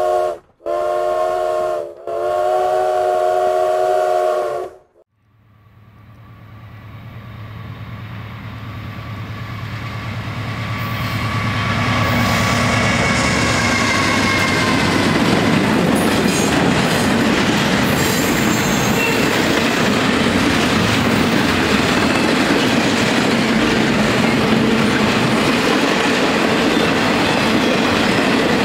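A train horn sounds a chord three times: a short toot, then two longer blasts. Then a diesel locomotive's engine rumble builds as Norfolk Southern 4000 approaches and passes. From about twelve seconds in, the loud, steady rumble and clickety-clack of a long intermodal freight train's cars rolling by takes over.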